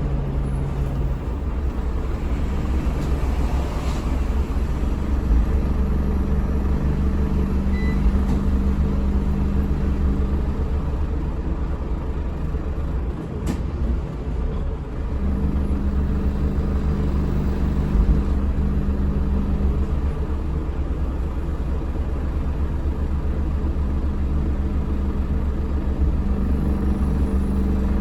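Scania L94UB city bus with its Scania DC9 diesel engine running as the bus drives, a steady low drone heard on board. Its tone steps up and down several times, with a brief dip and a click a little under halfway through.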